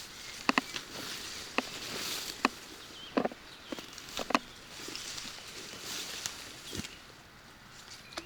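Footsteps on a wet path, with about seven irregular sharp clicks and snaps, over a steady hiss of falling rain.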